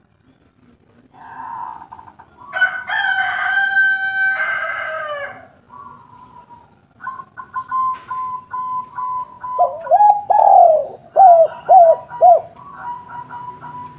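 A rooster crows once, one long call about two and a half seconds in. Later a spotted dove coos, a run of short dipping notes near the end.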